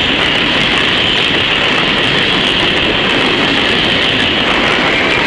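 CSX freight train of coal hopper cars rolling past close by: a loud, steady noise of steel wheels running on the rails.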